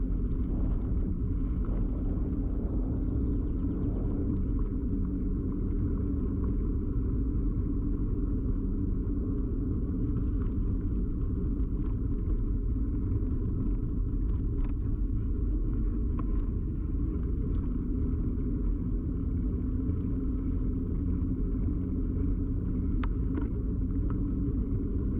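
Steady low rumble of a bicycle ride picked up by a camera fixed to the bike: tyre and frame vibration carried straight into the microphone, with a single sharp click near the end.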